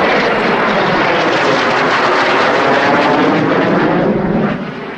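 Blue Impulse Kawasaki T-4 jet flyby: a loud jet roar whose pitch falls as it passes, dropping away sharply about four and a half seconds in.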